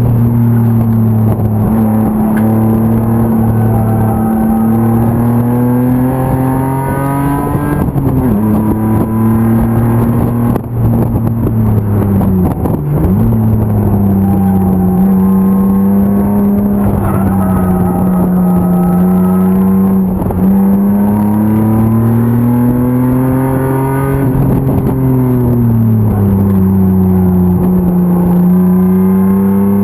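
BMW E36 325's M50 straight-six race engine running under load, its pitch rising and falling repeatedly as the revs climb and drop, with a sharp dip about thirteen seconds in.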